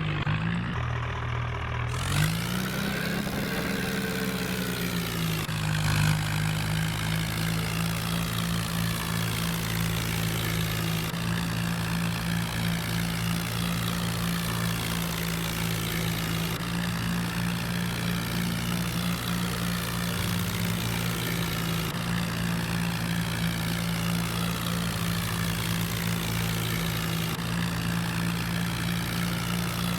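Tractor engine running steadily, its pitch rising and falling once about two to five seconds in, then holding even.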